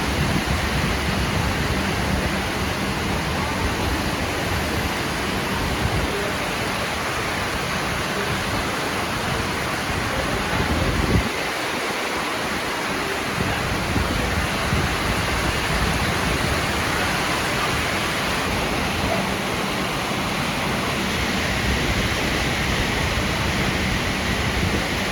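Heavy rain falling steadily, a dense even hiss, with a low rumble underneath that fades out briefly about halfway through and then returns.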